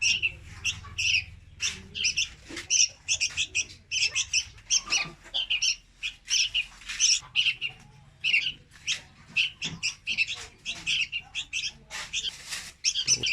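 Young red-whiskered bulbul calling in a rapid, unbroken run of short, high chirps, several a second.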